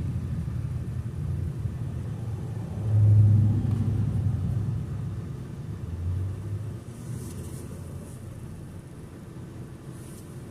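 Low rumble of a car on the road, swelling twice, about three and about six seconds in, then easing off to a quieter hum.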